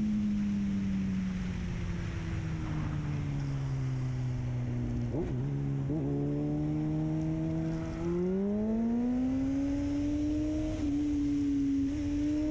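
A vehicle's engine running over steady road rumble while driving. The engine note drops over the first few seconds as it eases off, holds low, then rises again about eight seconds in as it accelerates.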